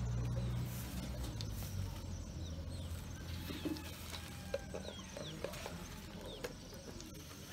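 Birds chirping in short, falling notes scattered through, over a low hum that fades out within the first two seconds, with a few soft knocks.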